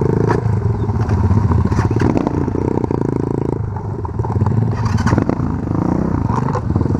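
Small-displacement pit bike engine running under changing throttle while riding slowly over rough ground. Now and then there is a knock or rattle from the bike over bumps.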